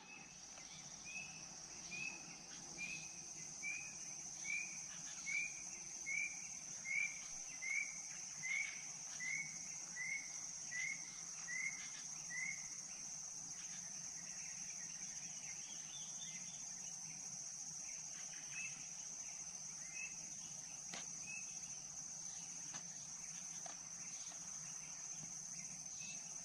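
Tropical forest ambience: insects keep up a steady high-pitched drone. Over it an animal gives a repeated short rising call about fifteen times, a little under once a second, then only now and then.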